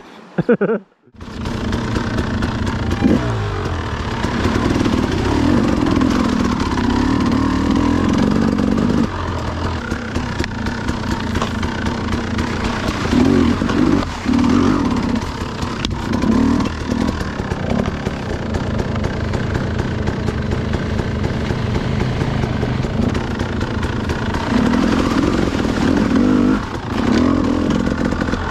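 Dirt bike engine running close to the microphone as the bike is ridden along a bush track, the revs rising several times with the throttle.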